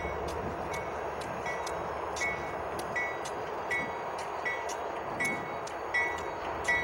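A bell rings steadily, about once every three-quarters of a second, over the continuous rumble of a passing train.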